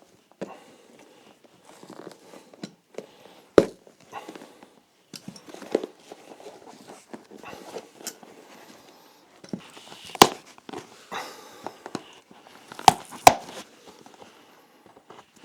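Nails being worked out of a leather shoe sole: irregular scraping and creaking of leather with scattered sharp clicks and knocks, the loudest about three and a half seconds in, about ten seconds in, and twice close together near thirteen seconds.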